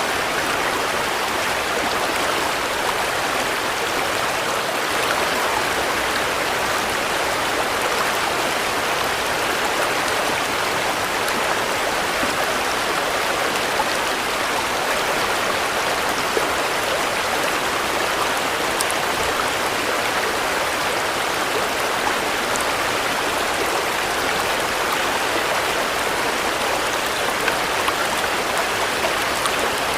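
Steady rain falling: an even, unbroken hiss with a few faint drop ticks scattered through it.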